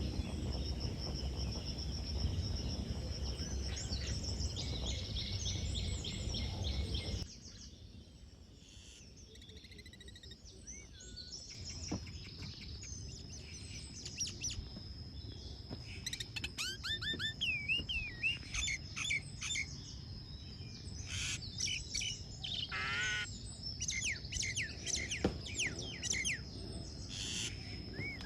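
Birds chirping and calling, many short rising and falling notes, over a steady high-pitched drone. For the first several seconds a loud low rumbling noise lies under them, then stops abruptly.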